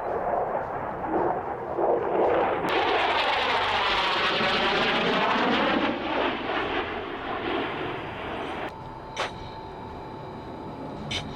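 Jet aircraft passing by, its engine roar swelling to loudest about three to six seconds in, then fading away.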